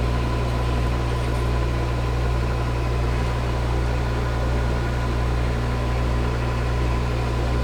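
A metal lathe running steadily, with a constant low hum and a faint steady high whine.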